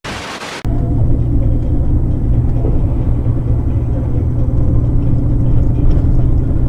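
A car driving, its engine and road rumble picked up by a dashcam microphone as a steady low rumble, after a brief burst of hiss at the very start.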